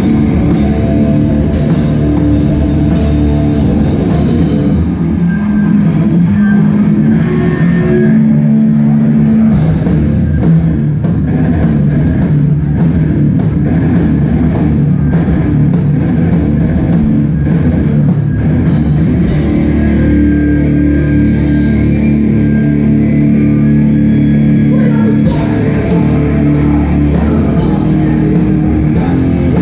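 Hardcore band playing live and loud: heavily distorted electric guitars, bass and a drum kit.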